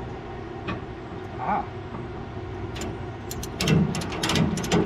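Ratchet strap buckle being worked to release a tie-down strap: a run of rhythmic clicks, two to three a second, starting about three seconds in, over a steady low engine hum.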